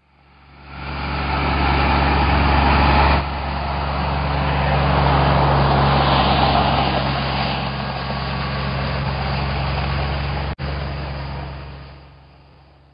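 Tractor engine running steadily with a low hum, fading in at the start and out near the end, with a brief cut about ten and a half seconds in.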